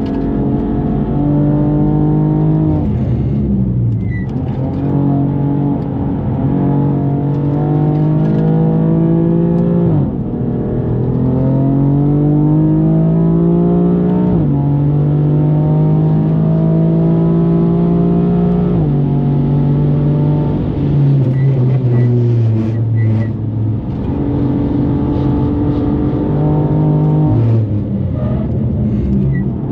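A tuned BMW M4's twin-turbo straight-six engine pulling hard under full throttle. It rises in pitch through the revs, with upshifts where the pitch drops suddenly, about ten seconds in and again a few seconds later.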